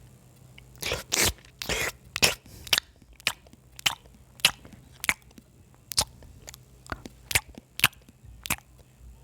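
Close-up chewing of crunchy food: a few longer crunches about a second in, then sharp crunching bites about twice a second.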